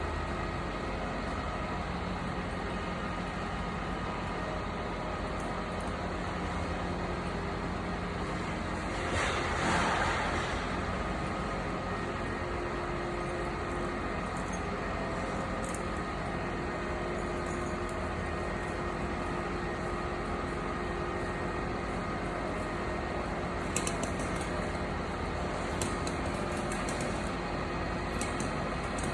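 Heavy engine running steadily, typical of the crane truck on a tree-removal job. About a third of the way in there is a brief louder rushing burst, and a few light clicks come near the end.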